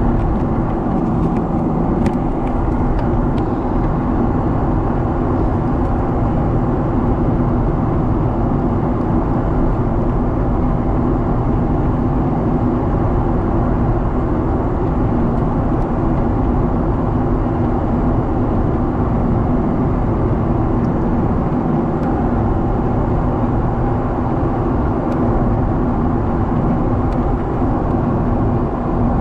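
Steady cabin noise inside a Boeing 777 airliner in flight: an even roar of engines and airflow with a low hum, and a few faint clicks.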